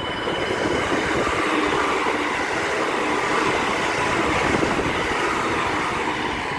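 Meitetsu electric train running through the station: a steady rush of wheels on rail that swells about a second in, holds, and eases off near the end, with a faint high whine on top.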